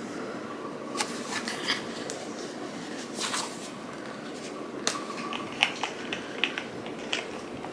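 Muscle balm packaging being handled and opened by hand: a scatter of small sharp clicks and brief rustles over a steady low room hum.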